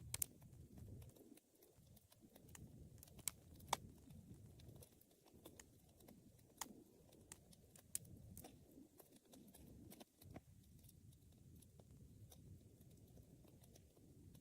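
Wood fire crackling: scattered sharp pops and snaps, the loudest just after the start and a few seconds in, over a soft low rumble.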